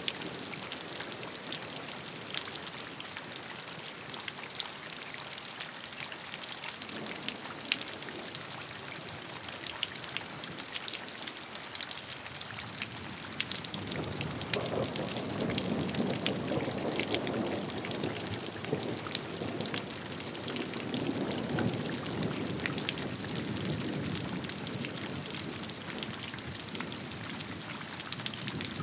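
Steady rain falling, with many separate drops ticking on a surface. About halfway through, a low rumble of thunder swells for several seconds and fades.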